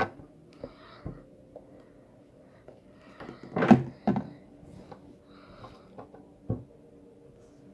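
A small spoon knocking and scraping against a small plate while slime ingredients are handled and mixed: scattered light clicks, a cluster of louder knocks about three and a half seconds in, and one more knock near the end.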